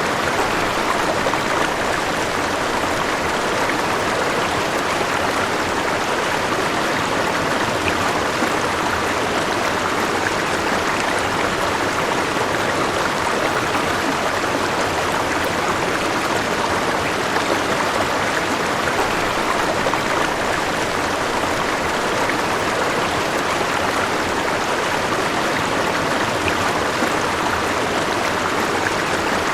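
River water flowing over rocks: a steady, unbroken rushing and babbling.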